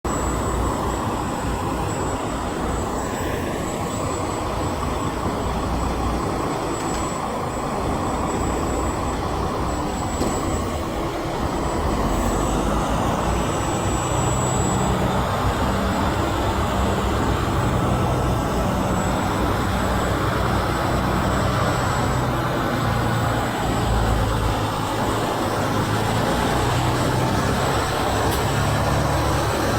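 Road traffic with heavy trucks going by, a steady engine drone that grows louder about twelve seconds in.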